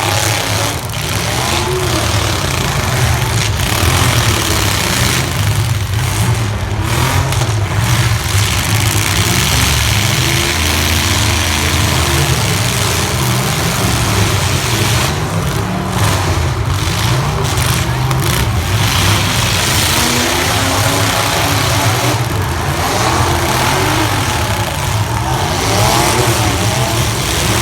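Several compact pickup trucks' engines running and revving hard, their pitches rising and falling over one another, as the demolition derby heat goes on.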